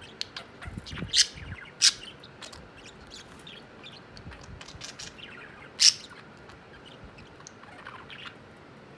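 Pet budgies chirping and chattering in a squabble, with three loud, sharp calls standing out, two close together about a second in and one about six seconds in, and a few soft thumps about a second in.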